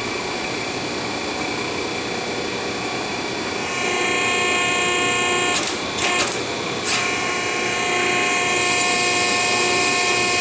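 Hydraulic exhaust pipe bender's pump motor running with a steady whine, getting louder about four seconds in as it takes the load of bending the tubing. A few sharp clicks or knocks come around the middle.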